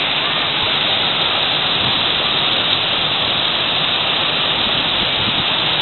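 Waterfall's falling water making a constant, steady rush with no change in level.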